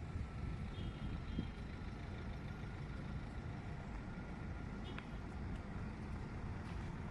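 Steady low rumble of a vehicle driving along a road, with road noise.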